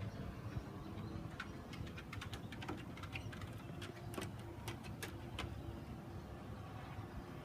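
Faint buzzing of a swarm of Tetragonula carbonaria stingless bees around their hive, with a run of sharp ticks from about a second and a half in until past the middle.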